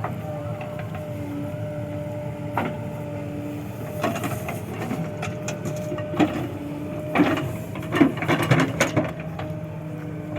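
Diesel engine of a JCB 3DX backhoe loader running steadily while loading mud, with a run of knocks and clatters from about four to nine seconds in.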